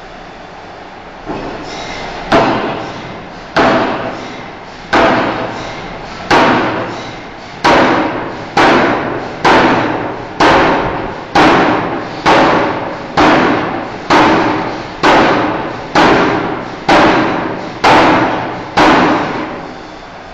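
Power forging hammer striking a steel bar, about seventeen heavy blows that each ring briefly and fade. The blows start about two seconds in, at roughly one every 1.3 s, and quicken to about one a second.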